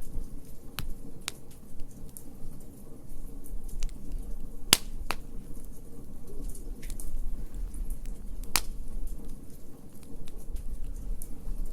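Wood fire in a fire pit crackling, with scattered sharp pops over a low rumble; the loudest pop comes a little before the middle.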